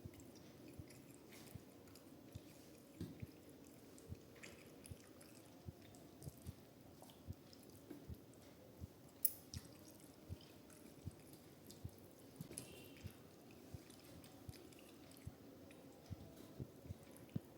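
A person chewing a mouthful of rice and fish curry: soft, wet mouth clicks coming about twice a second, with one sharper click about nine seconds in.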